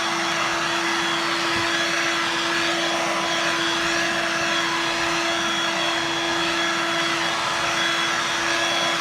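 Dirt Devil Vibe corded bagless stick vacuum running steadily: a constant rush of air with a steady pitched motor hum.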